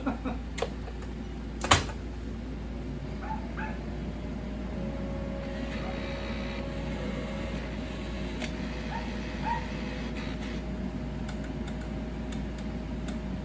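Steady electrical hum of a powered-on slot machine, with a single sharp click about two seconds in.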